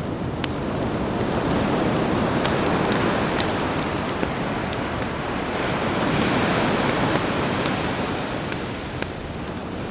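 Sea waves surging in and easing off twice, with a campfire crackling over them in scattered sharp pops.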